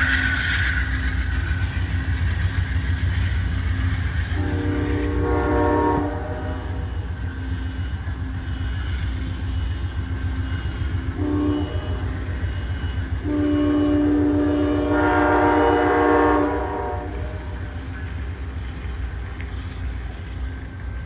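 Amtrak Downeaster diesel-hauled train departing with a steady low engine rumble, its horn sounding three times: a long blast about four seconds in, a short one near the middle, and a longer one after that.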